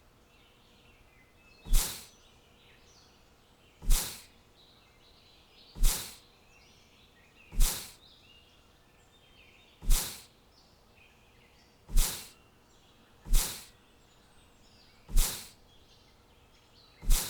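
A sharp knock repeats roughly every two seconds, each one dying away quickly, over faint bird chirping.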